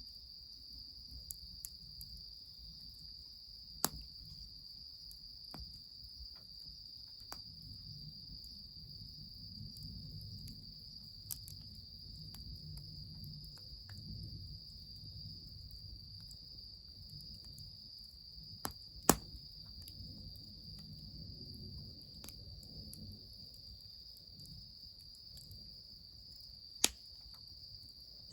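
Steady high insect chirring, like crickets, over a low rumble, with scattered sharp crackles from a wood fire, three of them loud and spread through, the rest faint ticks.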